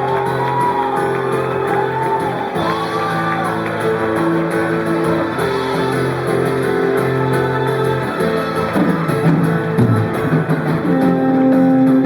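Live rock band playing a song's instrumental opening: sustained electric guitar chords that change every second or two, with a bass line moving underneath from about two-thirds of the way in.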